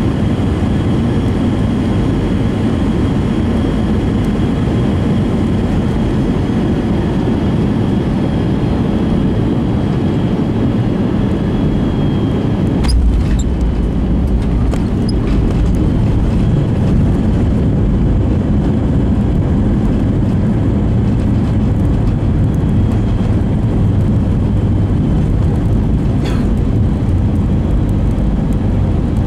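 Cabin noise of an Airbus A320 with IAE V2500 engines landing. About 13 seconds in the main wheels touch down with a thump, followed by a deep runway rumble and the engines going into reverse thrust.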